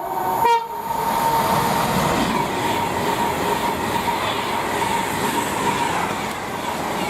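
Class 390 Pendolino electric train finishing a two-tone horn call with a short extra note just after the start, then passing at speed with a loud, steady rush of wheel and air noise and a thin steady whine.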